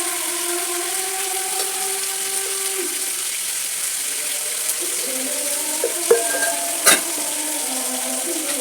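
Chicken curry frying and sizzling in a pan while it is stirred, with two sharp knocks against the pan about six and seven seconds in.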